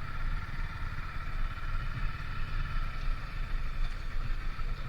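Motorcycle running on the move: a steady low rumble with a faint, even engine drone above it.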